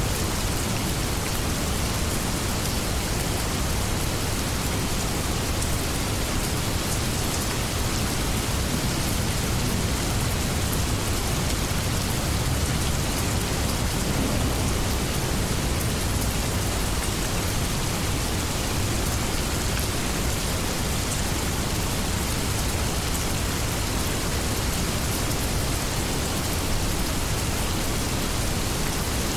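Steady rainstorm: an even, unbroken hiss of rain with a strong low undertone.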